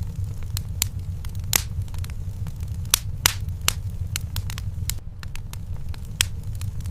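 Wood fire in a fireplace burning, with a low steady rumble of flame and irregular sharp crackles and pops, several a second.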